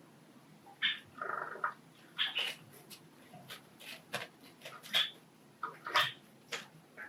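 Pet Java sparrows calling: short, sharp chirps at irregular intervals, with one longer note about a second in.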